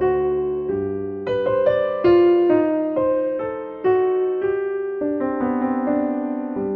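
Slow, gentle solo piano music: single notes and chords struck one after another and left to ring and fade.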